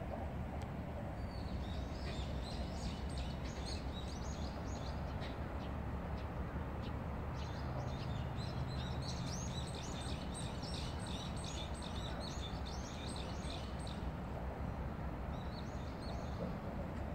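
Small birds chirping and twittering rapidly in two long spells and a short one near the end, over a steady low rumble.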